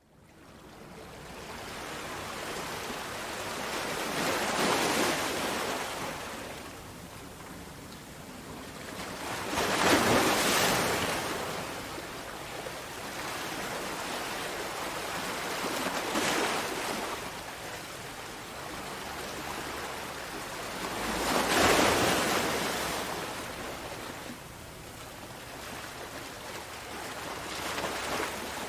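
Sea waves breaking on a shore, a steady wash of surf that swells with a larger wave about every five or six seconds.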